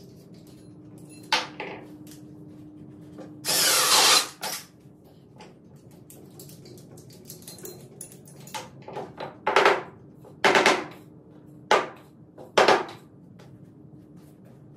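Power drill run in short bursts: one run of about a second, then four or five quick bursts later on, with a sharp knock before them.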